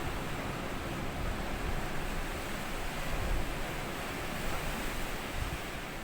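Small sea waves washing up on a sandy beach: a steady, unbroken wash of surf with no single loud break.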